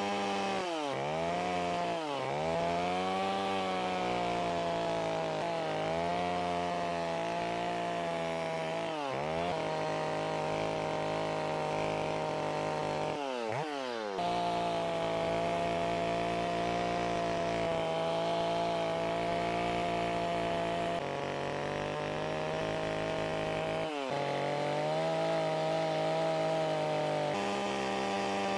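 Chainsaw running at high revs while carving wood. Its engine speed sags briefly and picks up again several times as the cutting load and throttle change.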